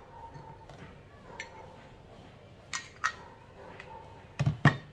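Coffee-making utensils being handled for a home espresso machine: a few light clinks, then two louder knocks close together near the end.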